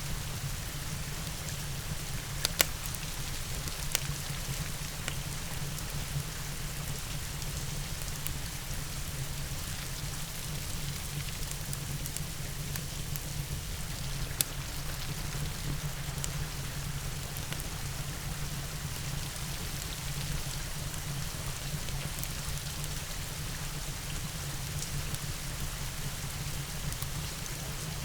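Steady rain with a low, even rumble underneath, and a few sharp pops of a wood fire crackling: two close together about three and four seconds in, and another about halfway through.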